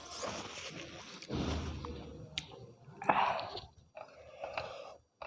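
A person chewing and eating with their mouth close to the microphone: mutton curry and rice, with wet mouth sounds and sharp clicks, the loudest burst about three seconds in.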